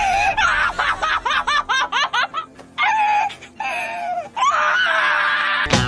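A high-pitched voice: a quick run of short yips or laughs, then two long, falling, wail-like calls. Music with sharp strikes comes in right at the end.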